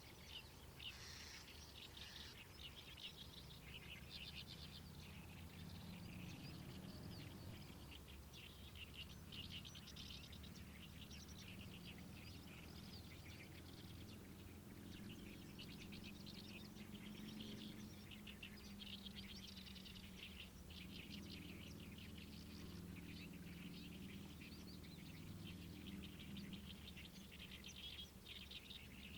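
Wild songbirds singing almost without pause in fast, chattering phrases, over a faint, low, steady rumble.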